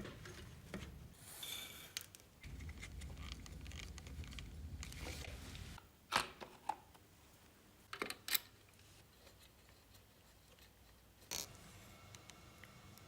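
Workshop handling noise: rubbing for about the first six seconds, then a handful of sharp clicks spread over the rest.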